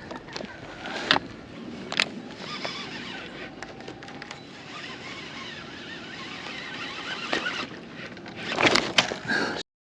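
Steady outdoor noise on a kayak, with sharp clicks and knocks from handling fishing gear about one and two seconds in and a louder cluster near the end, then a sudden cut.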